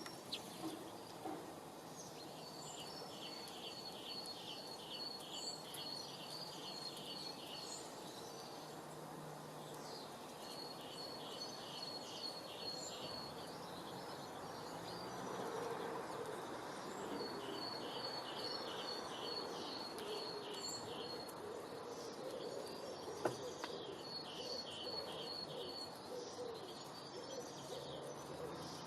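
A songbird repeating the same high phrase, a quick run of evenly spaced notes lasting about three seconds, every six or seven seconds over a steady outdoor background hiss. There is a single sharp click about two-thirds of the way through.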